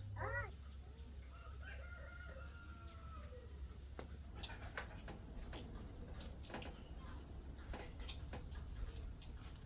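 A rooster crows: a short call, then a longer one with a falling end, over a steady high insect buzz. From about halfway through come a scattering of light clicks and taps.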